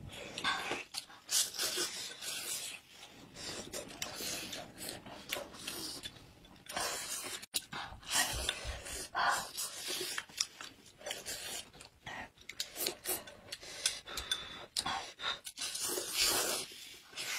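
People eating hot pot food: chewing and other mouth noises in short, irregular bursts.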